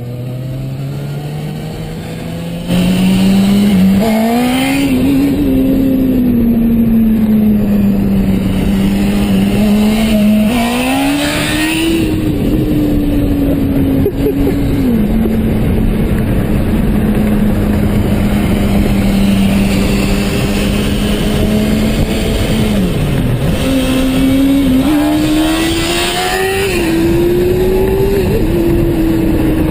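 Sport-bike engine with a loud exhaust running hard at high revs. Its pitch climbs at the start and rises several more times in short revs, holds steady for long stretches, and drops sharply once before climbing again.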